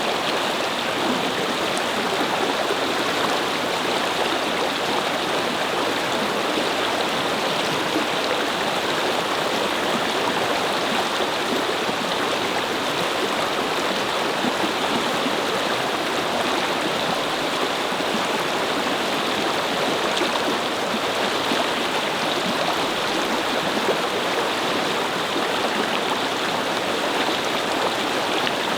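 Brook flowing and babbling over rocks, a steady rushing of water.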